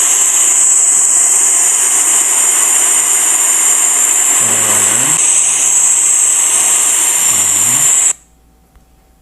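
Steady loud hiss of rain as picked up by a phone's microphone, heard on playback of the raw footage; it cuts off suddenly about eight seconds in.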